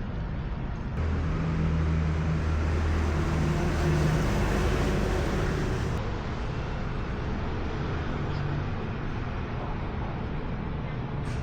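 A motor vehicle running: a steady low engine hum over road noise, louder from about one to six seconds in.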